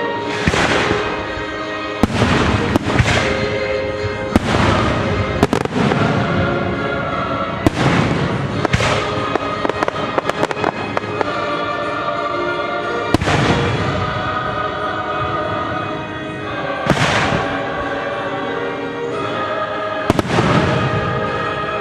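Fireworks bursting over orchestral music: booms every few seconds, with a run of sharp crackling reports around the middle.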